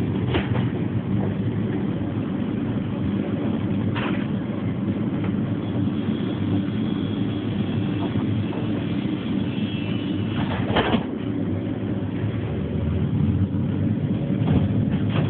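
Bombardier TVR rubber-tyred guided tram running in electric road mode: a steady low rumble with a few sharp clatters, one about 4 s in and a louder one near 11 s, and a faint high whine in the middle.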